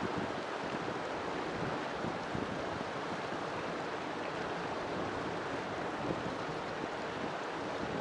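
River water flowing steadily, an even rushing noise with no pauses.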